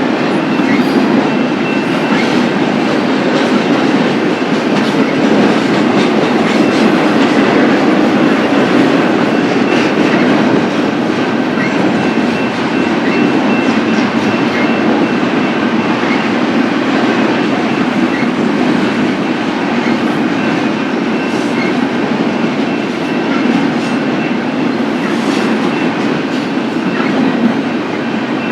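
Freight cars of a long BNSF train rolling past, with a continuous heavy steel-wheel rumble and scattered wheel clicks over the rails. A faint steady high squeal runs under it.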